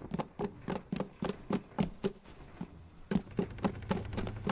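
Quick running footsteps, a cartoon sound effect: a steady run of short taps, about four to five a second.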